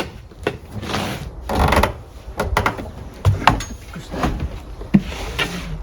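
Irregular knocks, clicks and rustling of gear being handled and set down, with two longer rustling spells.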